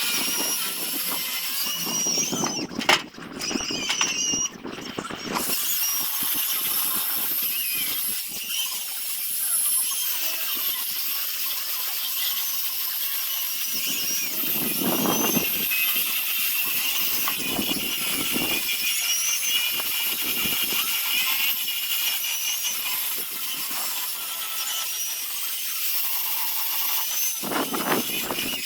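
Power sanding tool working zelkova root wood in a first, coarse sanding pass: a steady high whine with wavering squeals. Louder rasping surges come near the start, twice around the middle and again near the end, as the abrasive bites harder into the wood.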